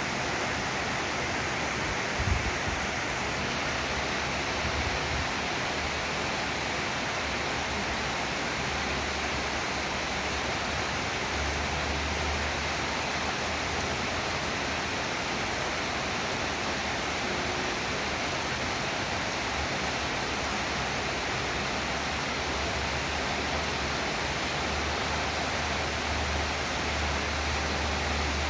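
Heavy rain falling in a steady hiss, with a low rumble coming and going underneath and a single knock about two seconds in.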